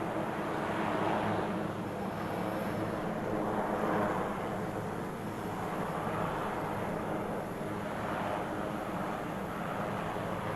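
Steady aircraft engine drone: a low hum under a rushing noise that swells and fades every few seconds.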